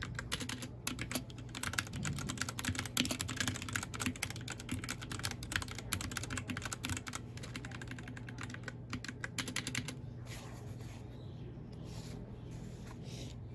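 Typing on a mechanical keyboard: a fast run of keystrokes for about ten seconds, then slowing to scattered keystrokes near the end, over a steady low hum.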